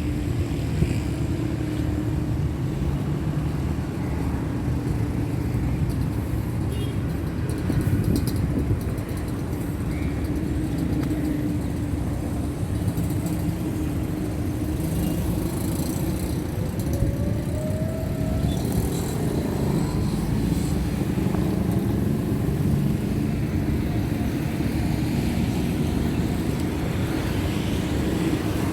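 A running engine's steady low rumble, with a brief rising whine about seventeen seconds in.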